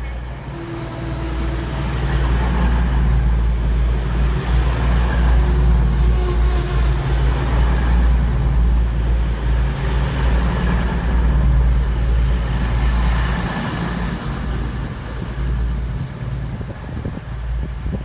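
Diesel intercity passenger train running alongside the platform, its engines giving a deep, steady rumble. The sound swells about two seconds in and fades over the last few seconds.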